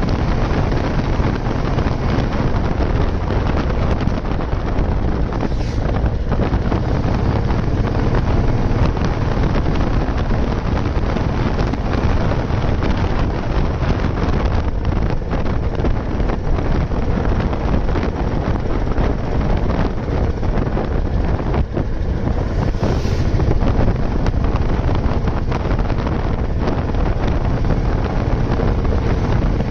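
Old Royal Enfield Bullet 350's single-cylinder engine running steadily under way, with heavy wind buffeting on the microphone.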